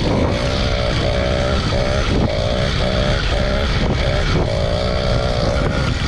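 Small motorbike engine running steadily, its note wavering and dipping briefly a few times, with low wind rumble on the microphone.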